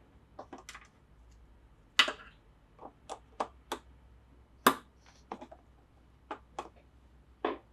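Hard plastic Plarail toy track and parts clicking and knocking together as they are handled and fitted, about a dozen sharp irregular clicks with two louder clacks.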